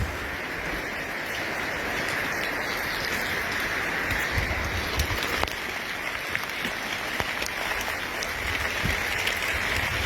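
Steady rain falling, with scattered drops ticking on hard surfaces.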